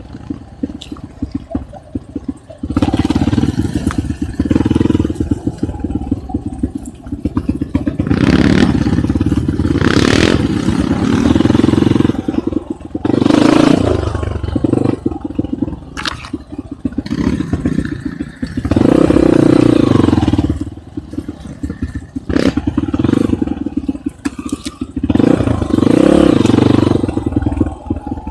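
Enduro motorcycle engine being ridden with repeated bursts of throttle. It runs lower for the first couple of seconds, then the revs rise and fall again and again, with loud surges between easier stretches.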